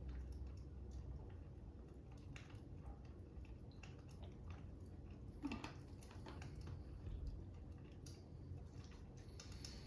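Faint crackling fire: irregular soft pops and clicks, one a little louder about halfway through, over a low steady rumble.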